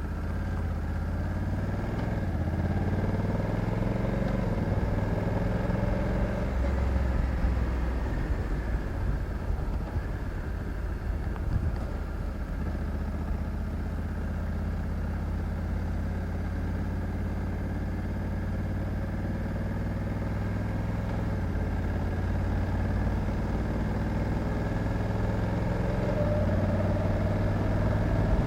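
Honda Africa Twin 1100 DCT's parallel-twin engine running under way, its pitch rising and falling as the revs change, with road and wind noise over it.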